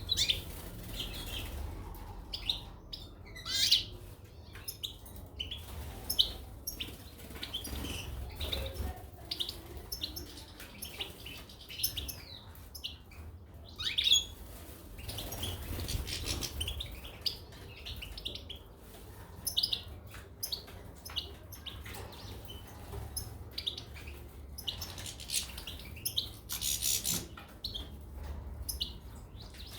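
Caged goldfinches and canaries chirping, with short calls coming over and over without a break.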